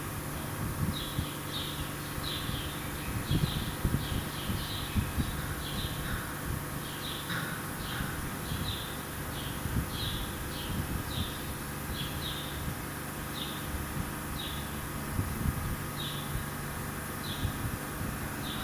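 Horizontal barn fan with blade-mounted misting nozzles running with a steady hum, under a faint hiss. Short high chirps repeat about every half second throughout, with occasional low knocks.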